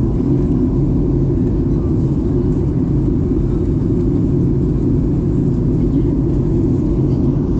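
Steady cabin noise of a Boeing 737-800 airliner heard from inside the passenger cabin: a constant, loud, low rumble of its engines and airflow, with no changes.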